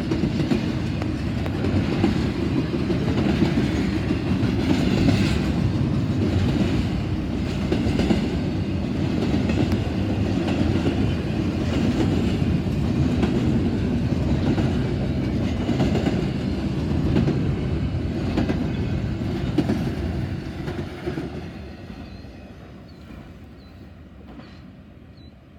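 Long double-stack freight train's cars rolling past, steel wheels clacking rhythmically over rail joints over a heavy low rumble. The sound dies away about 21 seconds in.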